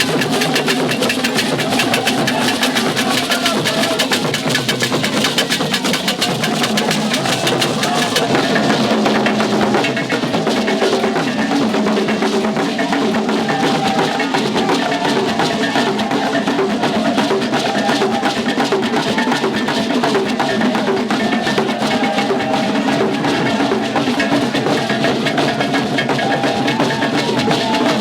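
Drum and percussion music with a dense, fast beat and sharp clicking strokes, and a wavering melody above it, going on steadily throughout.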